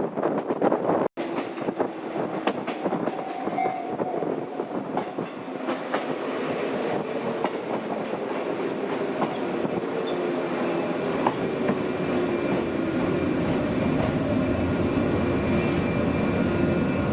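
Former JNR-type electric train running on the rails, growing steadily louder, with a faint whine that glides slightly downward and a few wheel clicks over the rail joints.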